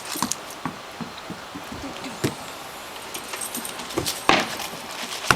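Scattered small clicks and rattles from handling a corked baking-soda-and-vinegar bottle rocket as it builds pressure, with a short sharp burst about four seconds in.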